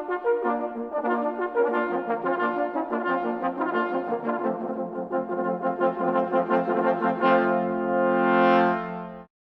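Brass music playing a run of quick notes, then holding a long chord from about seven seconds in, which cuts off suddenly just before the end.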